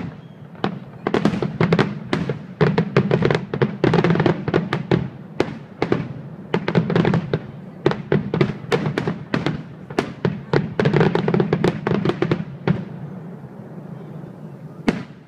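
Fireworks display: dense volleys of aerial shell bursts and crackling, many bangs overlapping in quick succession, thinning out after about twelve seconds, with one last single bang near the end.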